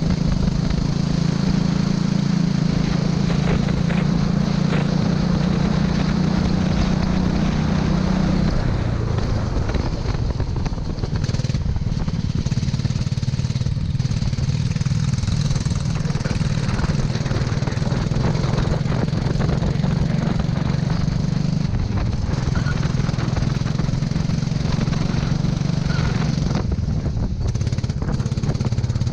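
Kart engine running hard and steadily. Its note drops about eight seconds in, as if backing off the throttle, then holds at the lower pitch.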